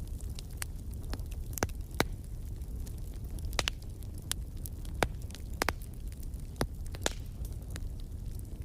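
Wood fire crackling in a fireplace: a steady low rumble with sharp, irregular pops and snaps, about a dozen of them, the loudest about two seconds in and about five seconds in.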